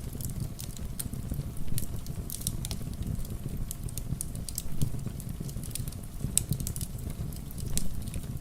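Wood fire crackling with frequent sharp pops, over a steady low rumble of rain.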